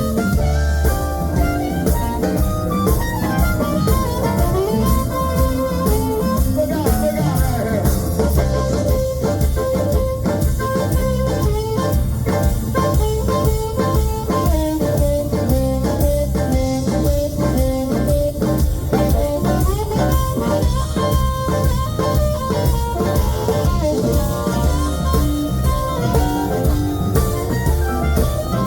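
Live blues band playing an instrumental passage: a drum kit keeps a steady beat under electric guitar lines with bent notes.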